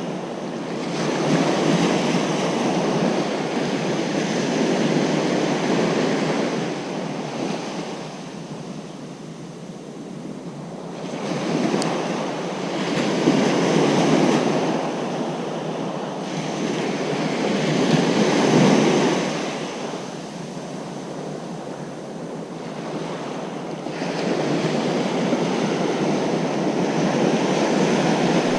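Ocean surf breaking on a beach, waves swelling and washing back in slow surges every few seconds, with wind on the microphone.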